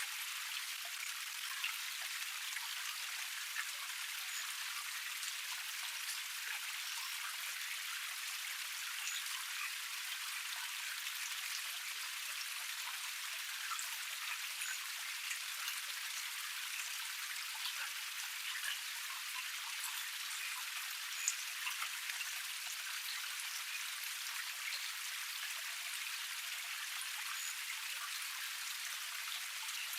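Water of a small cascade pouring and splashing steadily, a bright even hiss with no deep rumble, dotted with small drip-like splashes and one sharper splash about 21 seconds in.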